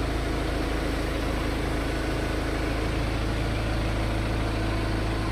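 BMW X4 xDrive20d's four-cylinder turbodiesel idling steadily, a regular, stable running sound.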